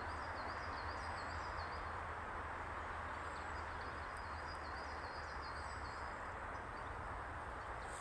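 Steady outdoor background noise, with a small bird singing runs of short, high, repeated chirps twice.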